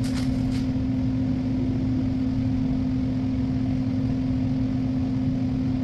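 A steady machine-like hum: one constant low tone over a low rumble, with a few faint light clicks at the very start.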